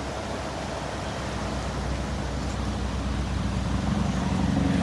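A car passing on an adjacent road, its engine and tyre noise slowly growing louder and peaking near the end, over the steady rush of a fast-flowing creek.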